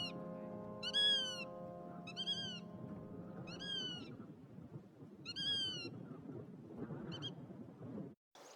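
An animal call repeated six times, about one every second and a half: each call is short and high, rising then falling in pitch, and the last is faint. A soft sustained music chord fades out under the first few calls.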